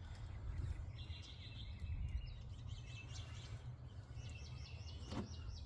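Small birds chirping, with a fast run of repeated chirps about four seconds in, over a steady low rumble. A single sharp click comes near the end.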